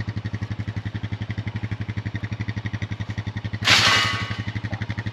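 An engine running steadily with an even, rapid pulse. About three and a half seconds in, a loud scraping burst with a brief squeal lasts about a second.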